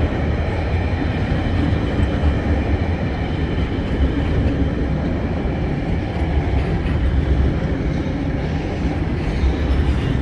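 TasRail freight train rolling past close by: a loud, steady rumble of wagon wheels on the rails.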